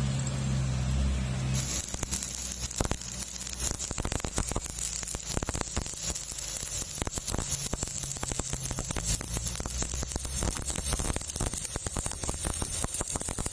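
Stick-welding machine humming, then an electrode arc is struck about a second and a half in and crackles steadily as the rod burns.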